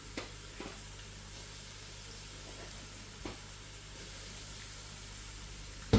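Hot cooking oil in a pot sizzling steadily as thyme is added, with a few light clicks.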